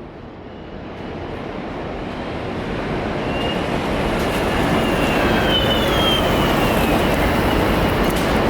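Boosted Board V1 and V2 electric skateboards accelerating: a rolling rumble of wheels on pavement that grows steadily louder for about five seconds and then holds, with a faint high whine from the belt-drive motors.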